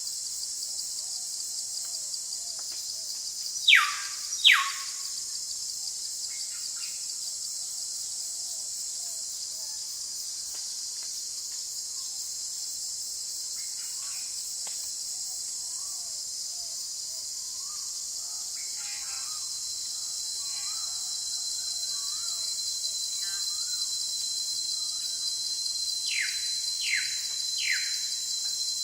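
Forest ambience: a steady high-pitched insect chorus with birds calling over it. Two loud falling whistles come about four seconds in and three quicker ones near the end, with faint chirps in between.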